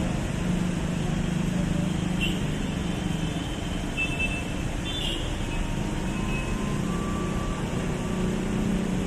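Ex-JR 205 series electric commuter train running at a station platform, a steady rumble with a low hum, with a few brief high tones over it.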